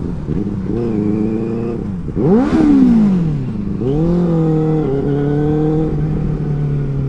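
Benelli 600i's inline-four engine revving. About two seconds in it gives a sharp throttle blip whose pitch falls away over a second or so. Then it pulls up through the revs again, with step-downs in pitch like gear changes.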